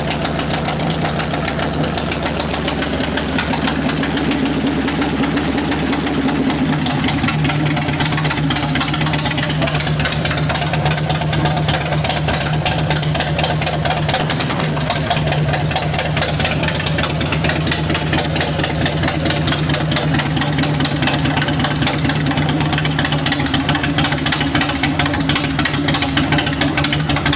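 Harley-Davidson Road King's Twin Cam 88 V-twin engine running steadily at idle, its firing pulses even and unchanging.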